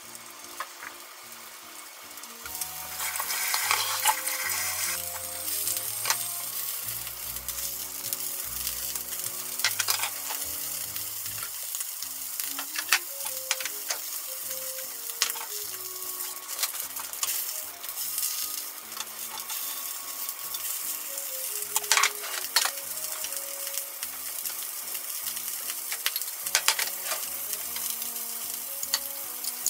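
Pork-wrapped rice balls sizzling as they fry in a frying pan, the sizzle starting about two and a half seconds in, with scattered sharp clicks and taps.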